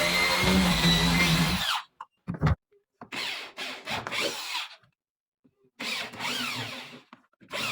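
Electric drill running with a whining motor: one run that stops about 1.7 s in, then two shorter bursts whose pitch rises and falls.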